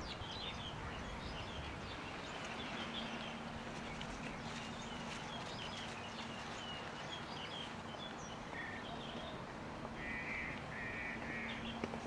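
Several birds chirping and calling with many short high notes, and three harsh rasping calls near the end. A steady low hum and a wash of background noise run underneath.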